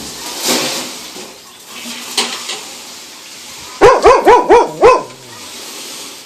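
A dog barking: a quick run of five loud barks about four seconds in, with softer rustling noise before it.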